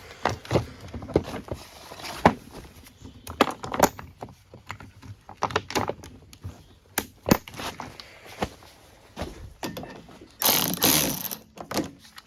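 Hand socket ratchet clicking in irregular bursts as bolts are worked loose on a snowmobile engine, mixed with metal clinks and knocks. About ten seconds in comes a louder, rougher burst lasting about a second.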